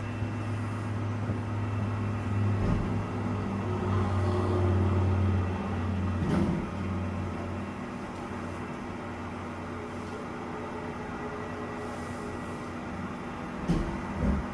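Garbage truck's engine running steadily under hydraulic load, its low note swelling for a few seconds and easing back about six seconds in, with a clunk then and a couple more near the end.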